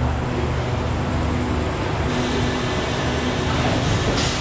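Steady low mechanical hum of a passenger train's carriages alongside the platform, with a short hiss about four seconds in.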